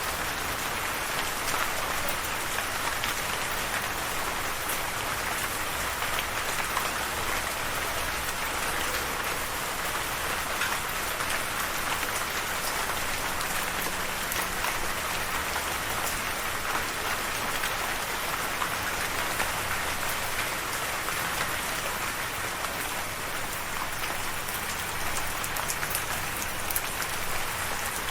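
Steady rain falling on a surface: an even hiss with many scattered ticks of single drops.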